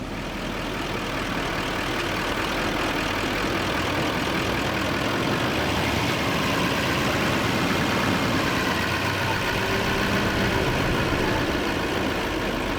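Pickup truck engine running under load as it strains to tow a stuck school bus, getting louder over the first few seconds and then holding steady.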